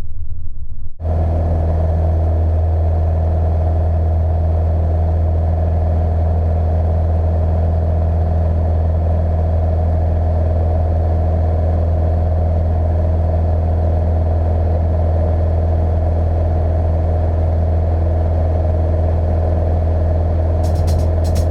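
Beechcraft Sundowner's four-cylinder piston engine running steadily, a loud, even drone that starts abruptly about a second in.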